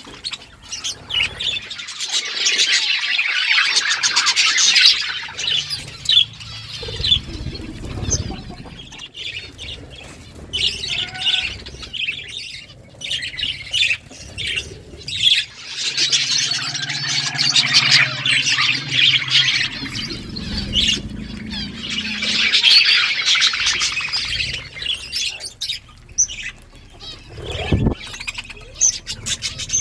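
Budgerigars chattering and chirping, a dense run of fast squawks and tweets that swells into several loud bouts with quieter chatter between.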